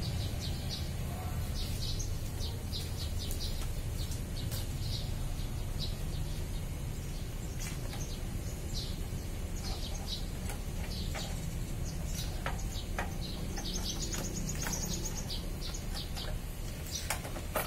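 Small birds chirping and tweeting in short high calls throughout, with one longer warbling call a little after the middle, over a steady low background rumble.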